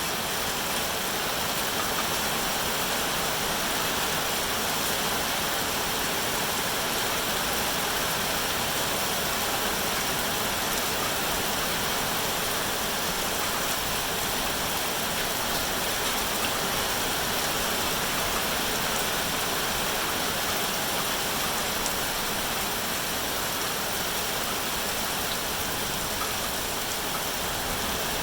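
Steady rainfall: an even, unbroken hiss with no single drops standing out.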